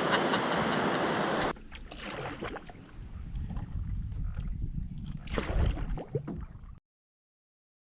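Loud rushing and splashing water around a capsized canoe, which cuts off abruptly about a second and a half in. It gives way to quieter low rumbling with scattered knocks, then dead silence near the end.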